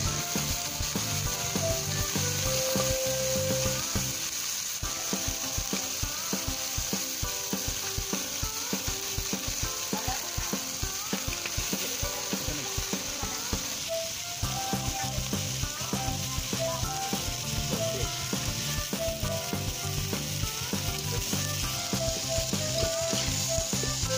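Whole freshwater prawns sizzling in hot oil in a wok, with dense crackling. A metal spatula scrapes and taps against the wok as they are stirred.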